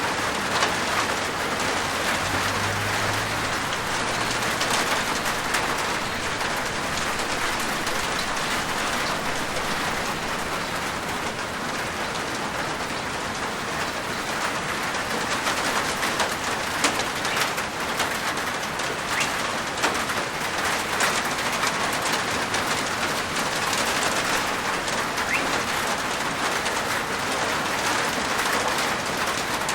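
Steady rain falling on a roof, a continuous patter of many small drop impacts.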